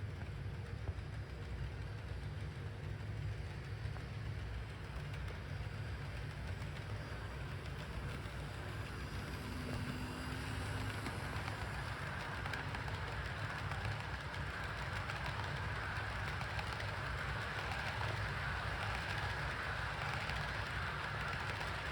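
HO scale Walthers SD70ACe model locomotive running on DC power around the track with its train of cars. Its motor and gears hum steadily under a hiss of wheels rolling on rail, growing slightly louder in the second half.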